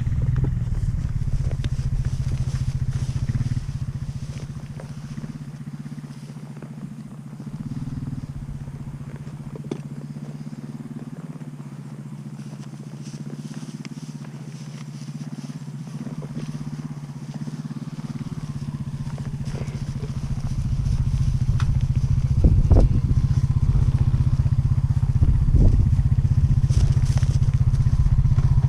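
An engine running steadily, quieter through the middle and growing louder again over the last several seconds, with a few short knocks near the end.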